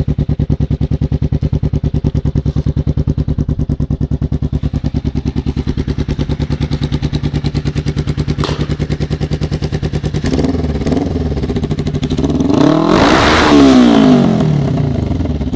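Kawasaki ER-5 500cc parallel-twin engine through a short, open exhaust, idling with a steady beat, then revved up and down about two-thirds of the way through, loudest near the top of the rev, before settling back to idle.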